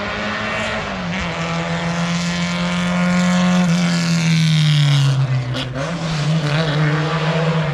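Classic sports car engine running hard as the car climbs the hill road past the spectators, its note growing louder. About four seconds in, the pitch drops, then steadies as it drives on.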